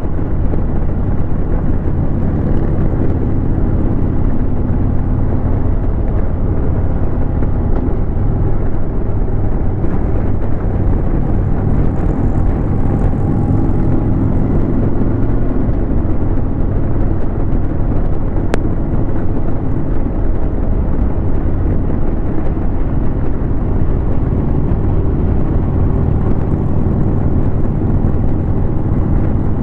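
Harley-Davidson Road King's V-twin engine running steadily under way on the road, with wind and road noise over the microphone.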